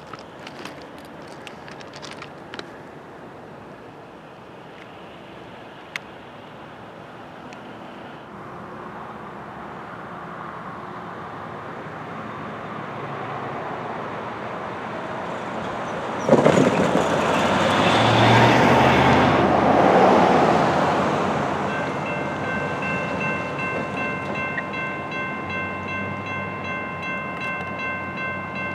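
CSX freight train, led by an ET44AH locomotive, rolling up to and over a grade crossing. The rumble builds, then a sudden loud rush comes a little past halfway as the locomotive reaches the crossing. Near the end the freight cars roll by steadily while the crossing's electronic bell rings in a quick pulsing rhythm.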